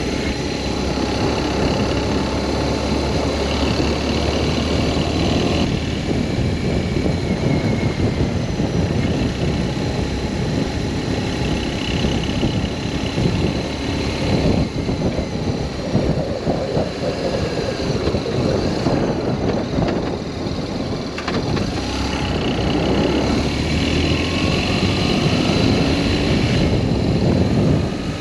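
BMW R1200S boxer-twin engine running under way, mixed with wind rush, its pitch shifting up and down a few times with throttle and gear changes.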